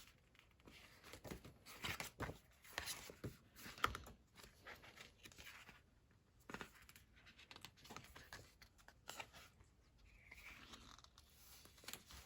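Faint, scattered rustling and small ticks of paper: sticker sheets and planner pages being handled.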